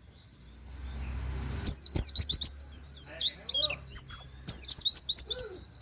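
A pleci (white-eye) sings: a soft high trill at first, then from about two seconds in a rapid stream of loud, sharp chirps and falling whistled notes.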